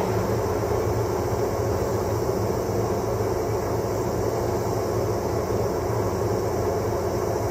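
Steady running noise of a diesel train on the Chizu Express Line, heard from inside the car: an even low rumble of the train rolling along the track.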